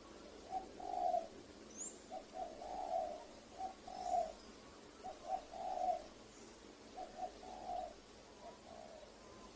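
Spotted dove cooing: repeated phrases of a few short notes leading into a longer coo, which stop about eight seconds in. A few faint high chirps from small birds are also heard.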